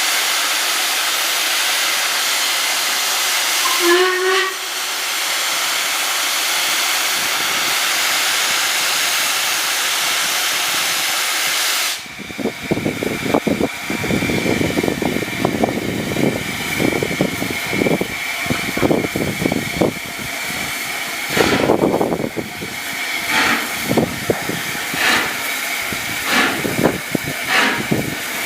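The Royal Scot steam locomotive hissing loudly with steam, with a short whistle toot about four seconds in. About twelve seconds in the hiss stops suddenly and the engine pulls away, its exhaust beats chuffing unevenly.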